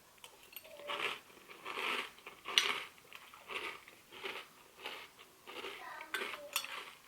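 A person eating crunchy breakfast cereal with a spoon: bursts of crunching and chewing with light spoon-on-bowl clinks, coming about once a second.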